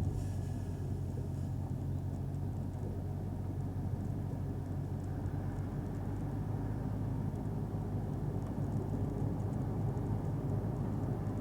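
Car driving at a steady pace: a low, even engine drone with road noise, holding one pitch.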